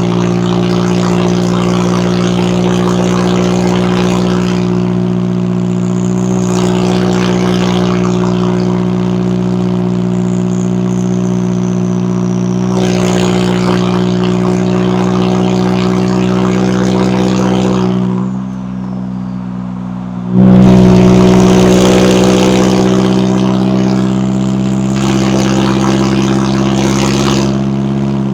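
McLaren 570S's twin-turbo V8 running at a steady engine speed, its exhaust note holding one even pitch. About two-thirds of the way through it drops away for a couple of seconds, then comes back suddenly at its loudest and eases off slowly.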